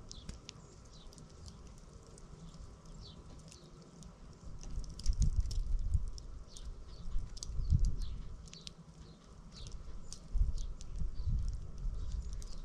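Small birds chirping, many short quick calls throughout. Low rumbling bumps come and go over them, loudest about five, eight and eleven seconds in.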